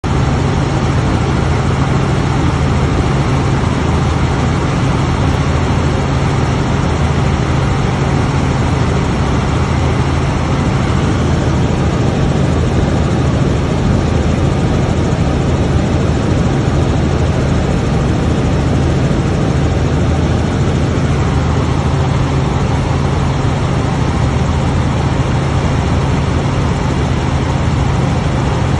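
Helicopter in flight: steady, loud engine and rotor noise with a strong low hum.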